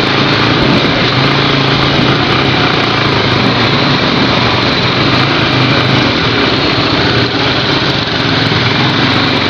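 Small motorcycle engine running steadily while riding, under a dense rushing noise.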